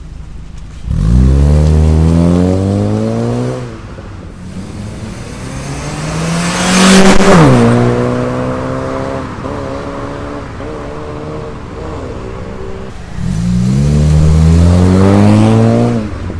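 Honda Civic FB's 1.8 i-VTEC four-cylinder engine through a new stainless-steel full exhaust and custom downpipe, pulling hard twice, each time climbing in pitch for about three seconds before falling away. Midway, a loud rev climbs and then drops sharply, settling into a steadier drone.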